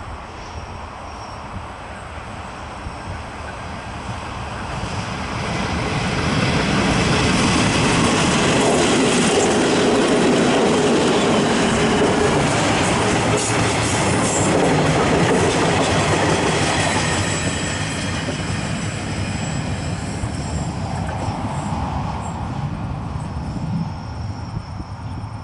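Diesel-hauled KiwiRail freight train passing close. The locomotives' engine noise builds from about four seconds in and is loudest through the middle, then eases as the wagons roll past on the rails.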